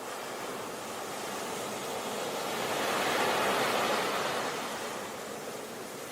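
Sea waves breaking on a beach: a steady wash of surf that swells to a peak about three seconds in and then ebbs away.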